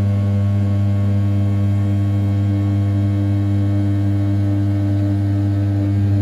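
500 W brushless spindle on an RZ420 desktop CNC mill, turning at 6000 rpm while an end mill rough-cuts the outer profile of a 7075 aluminium part. It makes a steady, loud, pitched hum, and a higher tone in it grows stronger about midway.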